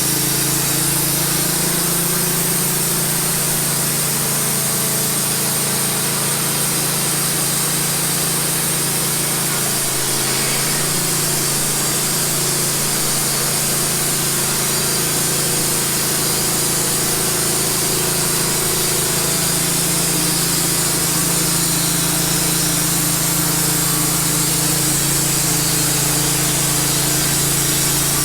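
Wood-Mizer LT15 portable band sawmill running steadily while its blade cuts through a cedar log: a steady engine hum under the constant hiss of the cut.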